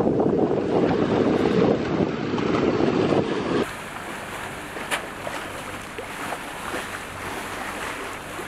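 Heavy wind buffeting the microphone over sea and waves, which cuts off abruptly a little over a third of the way in to a quieter bed of wind and water, with one sharp click about five seconds in.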